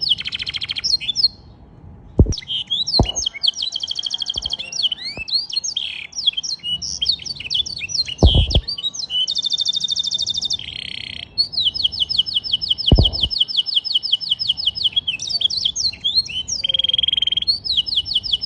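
Domestic canary singing a continuous song of fast rolling trills and sharp chirps, in the blackthroat style it has been taught. Four dull knocks break in briefly along the way.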